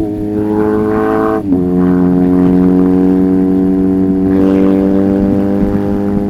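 1994 BMW R1100GS flat-twin boxer engine running under way through an Akrapovic titanium exhaust. Its pitch climbs gently, then falls sharply about a second and a half in, as at an upshift, and afterwards holds steady.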